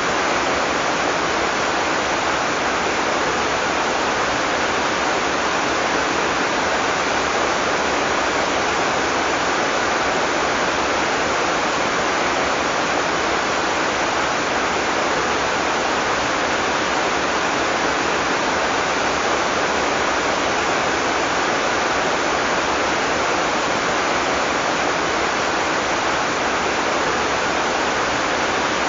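Heavy tropical rain falling in a steady, dense downpour without thunder.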